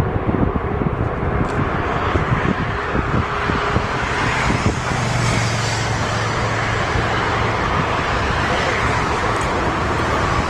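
Jet aircraft engine noise: a steady rushing sound with a low hum that swells in the middle, and choppy low rumble in the first few seconds.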